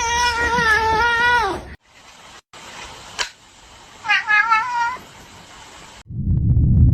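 A cat meowing: one long, drawn-out meow that falls in pitch at its end, then about two seconds later a shorter, wavering meow.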